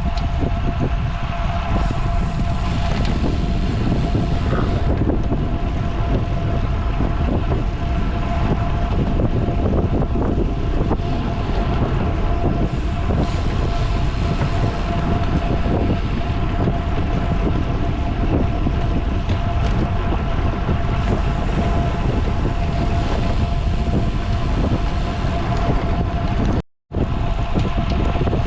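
Wind buffeting the microphone of a rider's camera on a road bike moving at speed, a steady loud rush with a faint constant whine under it. The sound cuts out completely for a moment near the end.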